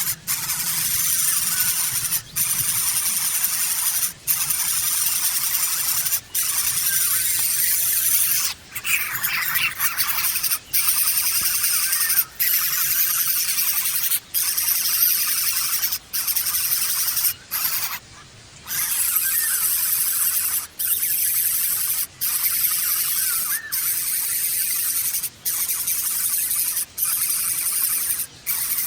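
Birds giving a continuous high, hissing squeal, broken by brief pauses about every two seconds, with a few short chirps among it.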